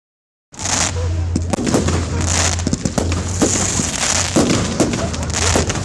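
Fireworks display going off: a rapid string of bangs and crackling that starts about half a second in.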